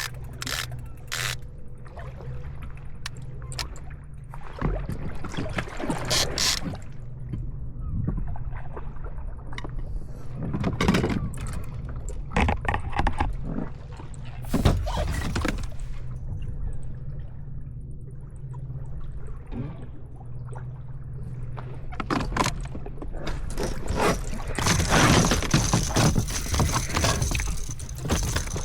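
Water splashing and gurgling around a fishing kayak, with irregular knocks and clatter of handling against the hull over a steady low rumble.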